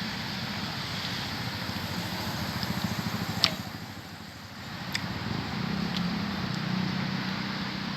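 Road traffic driving past: one vehicle's engine swells and passes about three seconds in, then another approaches with a steady engine hum. A sharp click sounds about three and a half seconds in.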